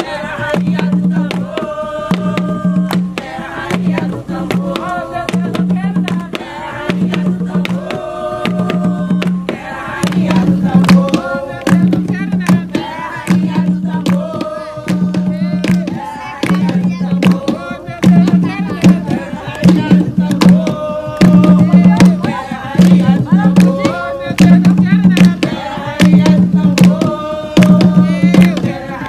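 Jongo music: hand drums beating a steady, driving rhythm while a group of voices sings.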